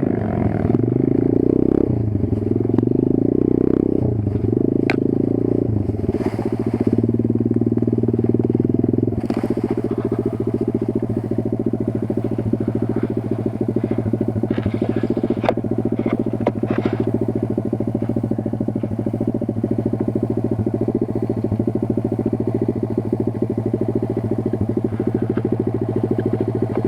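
Kayo 140 pit bike's single-cylinder four-stroke engine running, its revs changing for the first several seconds and then holding steady, with scattered clicks and knocks.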